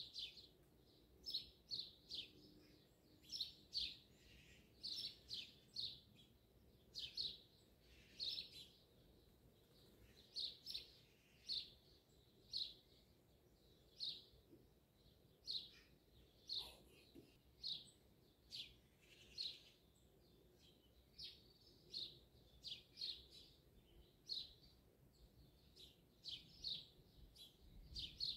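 Songbird chirping at dawn: short high chirps, often in pairs, repeating about one or two a second, over a very quiet background.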